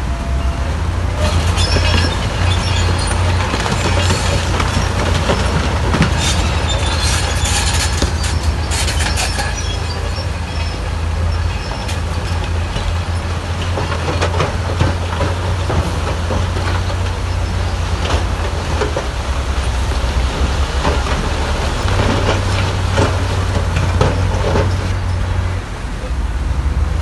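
Bulldozer's diesel engine running steadily under load, with clanking and scraping of steel and stone on top, densest in the first ten seconds.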